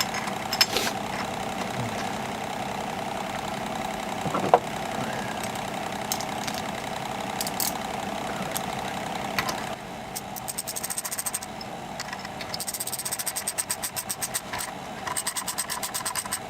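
McCulloch Pro Mac 10-10 two-stroke chainsaw being pull-started: three pulls of the starter cord, each a quick run of even cranking pulses, with the engine not catching. A steady hum runs for the first ten seconds or so, before the pulls.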